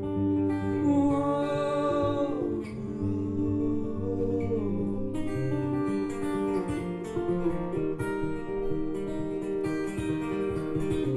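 Live acoustic song: acoustic guitar strummed throughout, with a held wordless vocal in the first couple of seconds. The strumming turns sharper and busier about five seconds in.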